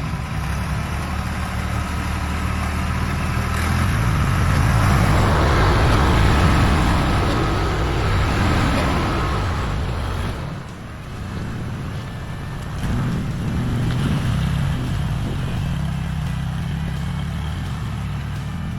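Duramax diesel pickup truck running as it approaches, the sound swelling and louder from about four seconds in to about ten seconds in, then easing back to a steady engine note.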